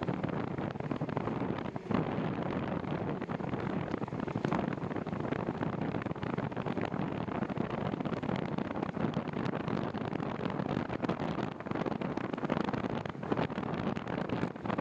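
Wind buffeting the microphone on a moving bicycle: a steady rushing noise with brief sharper gusts.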